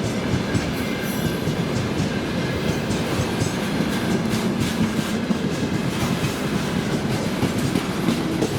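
Freight train rolling past, its steel wheels clattering steadily over the rail joints, with a brief high wheel squeal about a second in.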